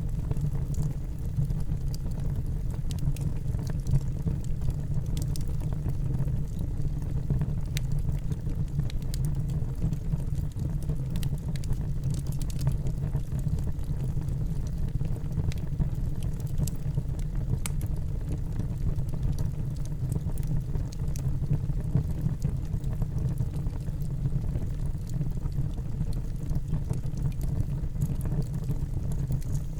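Wood fire burning in a fireplace: a steady low rumble from the flames, with scattered small crackles and pops.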